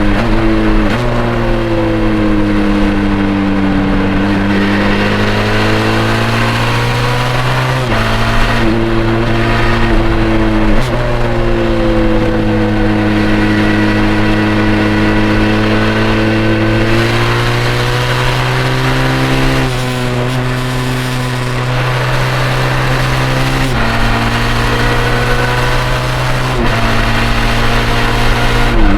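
Benelli TRK 502's 500 cc parallel-twin engine under way, its pitch sweeping up and down with the throttle and stepping abruptly at gear changes several times, over steady road and wind noise.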